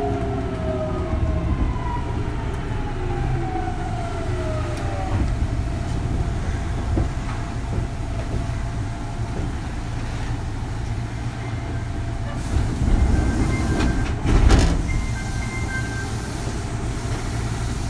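Kintetsu 3200 series train's early Mitsubishi GTO VVVF inverter whining in several tones that fall together in pitch as the train slows, dying away about five seconds in. After that the steady rumble of the car on the track goes on, with a few louder knocks a little before the end.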